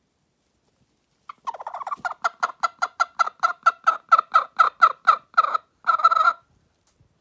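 A hen calling close by: a quick run of short clucks, about four a second, ending in one longer squawk.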